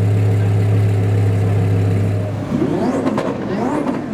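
Twin-turbo Audi R8 RWS V10 idling steadily. About two and a half seconds in, the throttle is blipped in quick revs that rise and fall, with a few sharp cracks from the exhaust.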